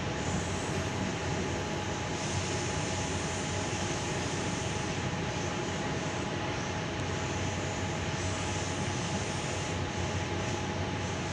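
Sydney Tangara electric train running at speed, heard from inside the carriage: a steady rumble of wheels on rail with a steady hum over it.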